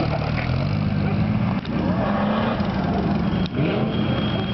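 Engines of off-road rally 4x4s running as they drive slowly past one after another, the engine note rising and falling. The sound breaks briefly twice.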